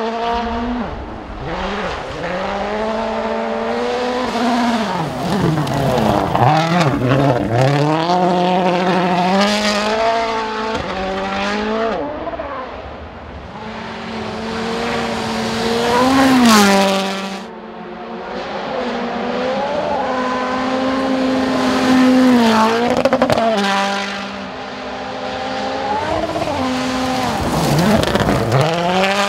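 Toyota Yaris WRC rally car's turbocharged 1.6-litre four-cylinder engine at full throttle on a gravel test road, its pitch climbing and dropping repeatedly through gear changes. It grows louder several times as the car comes past close.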